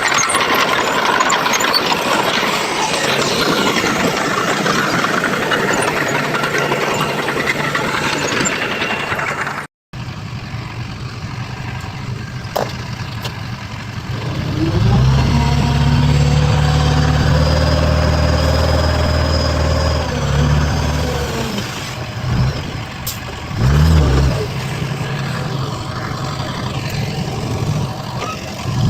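Heavy construction machinery at work. A dense mechanical clatter runs for about ten seconds and breaks off suddenly. Then a heavy vehicle engine runs, revs up and holds high for several seconds, and rises and falls in pitch a few more times near the end.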